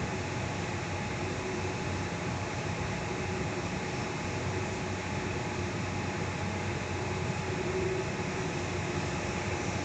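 Steady running noise inside a moving Sydney Trains Tangara electric train, with a faint steady hum under the rumble of the wheels on the track.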